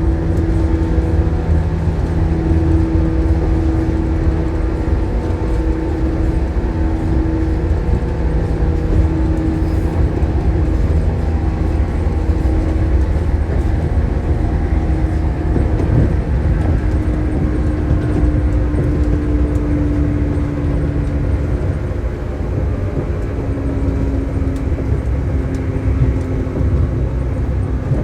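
Shinano Railway 115 series electric train running, heard from inside the car: a steady, loud low rumble of wheels and bogies under a traction-motor hum whose tones shift in pitch now and then.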